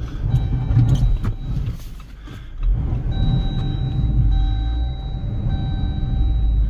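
Jeep Compass Trailhawk's engine running under load as the SUV works through deep snow, easing off about two seconds in and picking up again. A faint steady high tone sounds over it from about halfway on.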